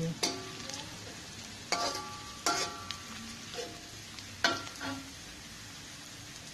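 Sliced shallots frying in oil in a metal wok, a steady sizzle. A metal spatula knocks and scrapes against the wok several times in the first five seconds, some knocks leaving a brief metallic ring.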